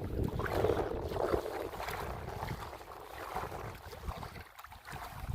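Wind buffeting the microphone: a gusty, uneven rumbling noise that eases off about halfway through.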